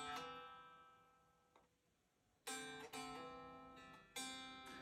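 Fingerpicked notes on an acoustic guitar. A note rings and fades out over the first second, then after a pause of about a second and a half a few more notes are picked from about 2.5 s, with a hammer-on raising the pitch of a ringing note.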